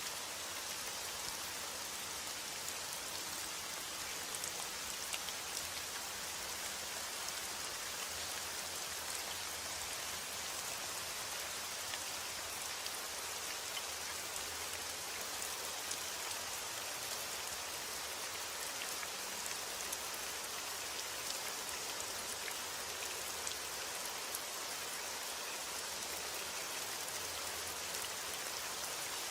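Steady rainfall, many small drops pattering on a surface with a dense, even hiss.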